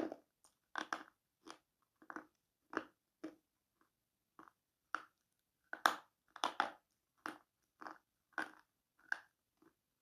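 A black slate pencil being bitten and chewed close up: a run of crisp, dry crunches at about two a second, loudest around the middle.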